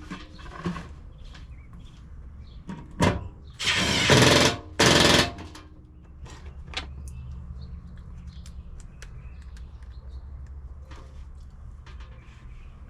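Cordless impact driver run in two short loud bursts, about four seconds in, between scattered clicks and knocks of parts being handled, over a steady low hum.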